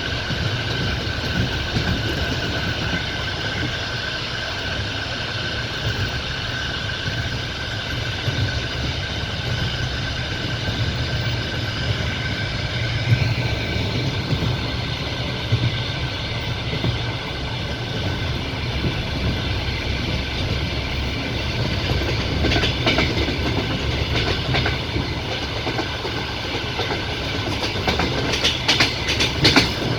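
Passenger train running along the line, heard from inside a carriage: a steady rumble of wheels on rail, with a thin steady whine in the first half. Quick runs of wheel clicks over rail joints come about 22 seconds in and again near the end.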